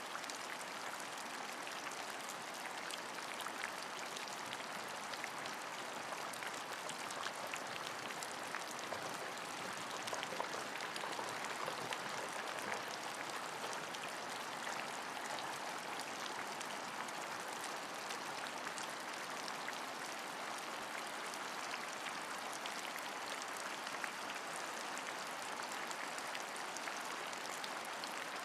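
Steady rain falling, an even hiss with a dense patter of small drops and no let-up.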